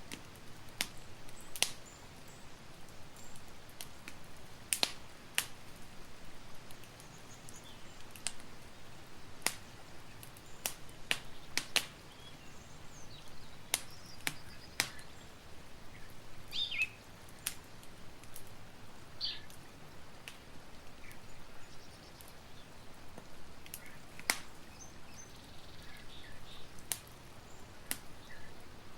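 Campfire crackling, with irregular sharp pops and snaps over a soft steady hiss. A few faint high chirps, like birds, come now and then.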